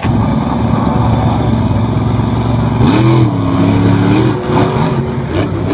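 Monster truck engine running loud, revving up about three seconds in, holding the higher pitch for over a second, then dropping back.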